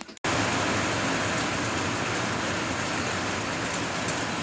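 Steady rain falling, a dense even hiss with faint drop ticks, starting abruptly a moment in.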